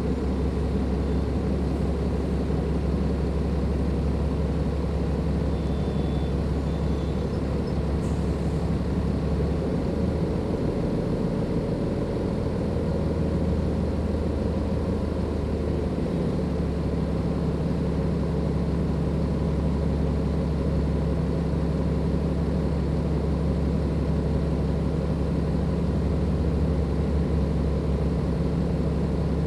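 Dennis Enviro 500 double-deck bus with a Cummins ISLe340b diesel engine, heard on board while under way. The engine runs with a steady drone and a thin steady turbo whine above it, and the note shifts a little about halfway through.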